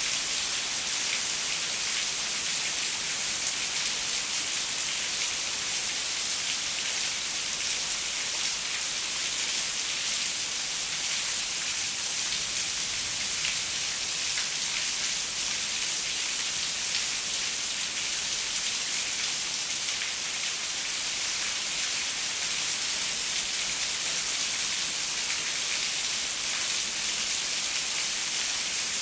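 Steady rain pattering on a window: an even hiss, with many small droplet ticks.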